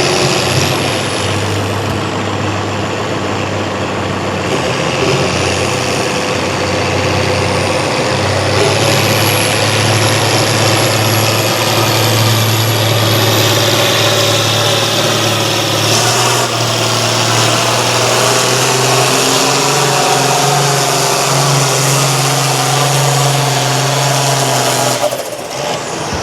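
Diesel pulling tractor's engine running hard under load while pulling the sled, its note holding steady. A thin high whistle rises in pitch partway through, and the sound breaks off near the end.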